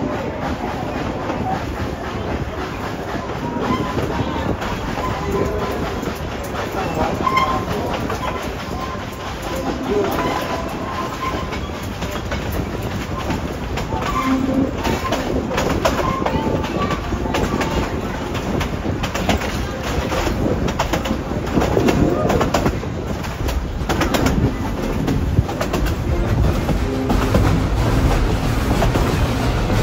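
Narrow-gauge passenger train rolling along steadily, its wheels clicking over the rail joints under a continuous rumble, heard from aboard the coaches.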